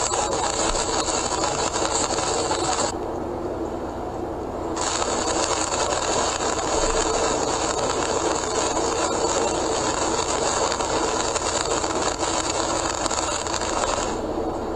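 Car driving at speed on a rain-soaked expressway, recorded by a dashcam: steady road and tyre noise with a loud hiss of water spray. The high hiss drops out for about two seconds, about three seconds in, and fades again near the end.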